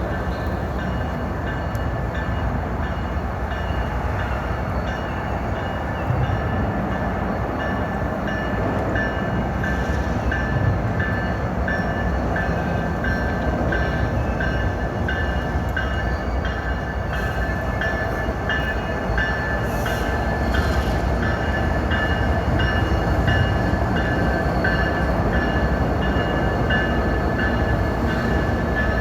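Train cars rolling steadily across a railroad drawbridge: a continuous rumble with a high metallic ringing from the wheels that pulses in an even rhythm, about twice a second.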